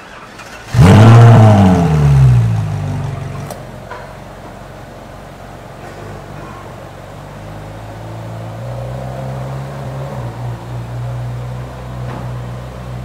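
Ferrari 458 Italia's V8 with a Kreissieg aftermarket exhaust starting up: it catches about a second in with a loud rev flare that rises and falls back within about two seconds, then settles into a steady idle.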